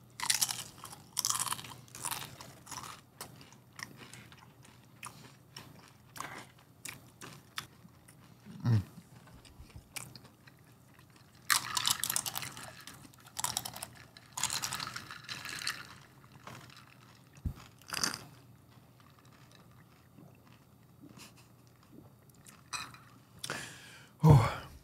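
Close-miked chewing and crunching of food, with irregular bursts of crisp crunches and wet chewing separated by quieter gaps. The crunching is busiest in the first few seconds and again about midway through.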